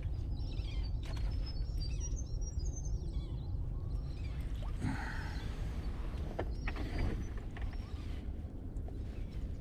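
Small birds chirping over a steady low outdoor rumble, with a few sharp clicks around the middle.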